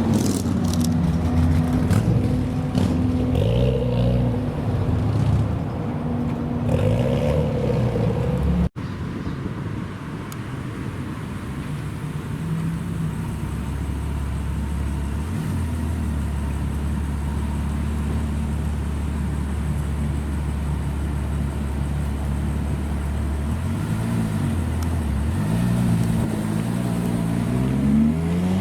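Supercar engine revving up and down. After a sudden cut, an engine idles steadily with a low drone, is blipped once, and then revs rising in pitch near the end.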